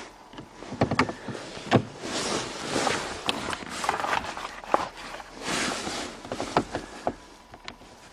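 Scattered clicks, knocks and rustling, the sounds of handling and moving about a car. No engine or motor is running.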